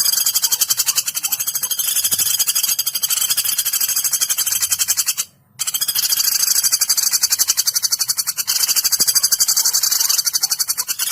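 Recorded woodpecker calls (pelatuk) played as a masteran for training songbirds: a rapid, high-pitched chattering trill repeated without pause, with a brief break about five seconds in.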